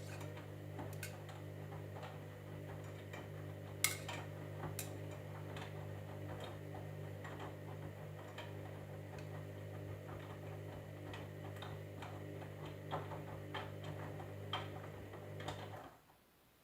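Candy washing machine running its drum with a steady motor hum and irregular light clicks and knocks, one sharper click about four seconds in; the hum cuts off abruptly near the end as the drum stops.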